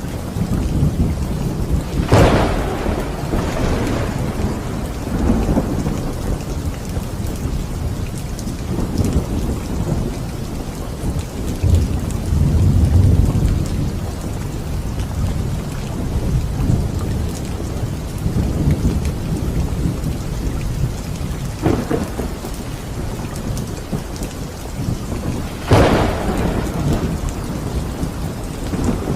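Steady rain with thunder. Sharp thunderclaps come about two seconds in and twice near the end, and a long low rumble swells up around the middle.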